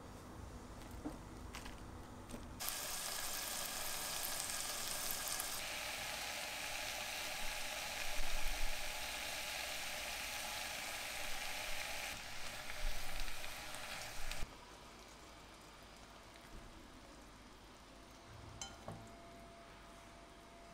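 Napa cabbage and beech mushrooms sizzling as they stir-fry in a pan, with louder moments of stirring. The sizzle starts a couple of seconds in and cuts off suddenly about two-thirds of the way through, leaving only faint clicks near the end.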